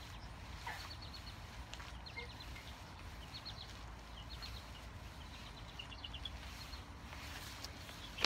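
Small birds chirping: groups of three or four quick high notes every second or so, over a faint steady low rumble.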